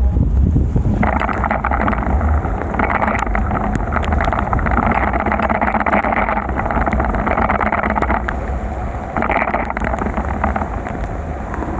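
Steady water hiss of riding a bicycle through heavy rain on a soaked road, over a low wind rumble on the microphone. The hiss sets in about a second in and drops out for a moment near the end.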